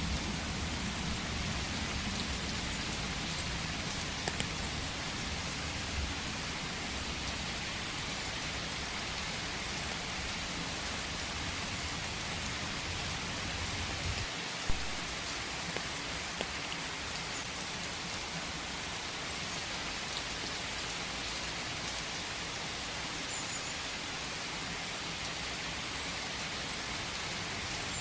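Steady rain falling, an even hiss of drops with a low rumble underneath in the first half that drops away about halfway through. A single sharp tick stands out about halfway through.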